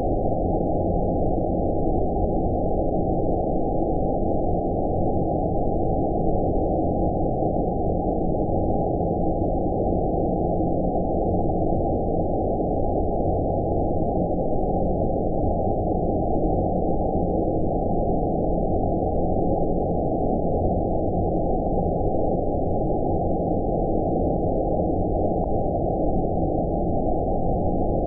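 Steady low, rumbling synthetic noise with all treble cut off, unchanging throughout: a 'space' white-noise track for sleep.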